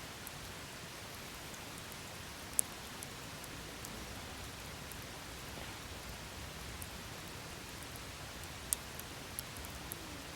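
Wood campfire burning: a steady hiss with scattered sharp crackles, and two louder pops, one about two and a half seconds in and one near nine seconds in.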